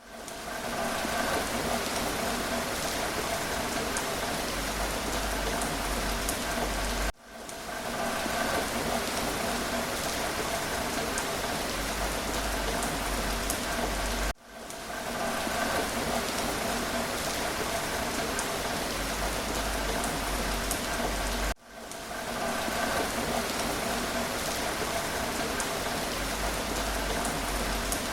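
Steady rain falling, with scattered drop ticks in the hiss. About every seven seconds the sound drops out for an instant and swells back, where a short rain recording loops.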